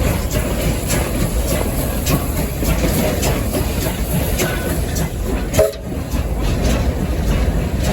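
Steam locomotive running, heard from the cab: a steady low rumble with repeated rail clicks and clanks. A brief sharp squeal or clank about five and a half seconds in is the loudest moment.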